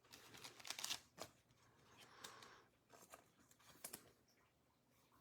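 Faint rustling and light clicks of trading cards being handled and slid one behind another through a freshly opened pack.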